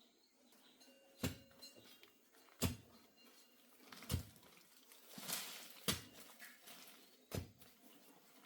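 Five dull thuds at a steady pace, about one every one and a half seconds, with a short scraping rush just before the fourth.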